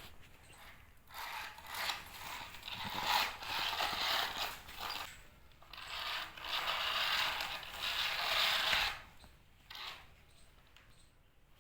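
Small geared motors of a toy construction vehicle running in several spells of a few seconds each, a gritty mechanical whirring that drops away about nine seconds in.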